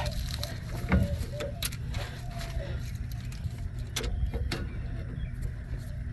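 Hand-tool work on the bolts under a pickup: a few scattered sharp metallic clicks and clinks over a steady low hum, with a short grunt about a second in.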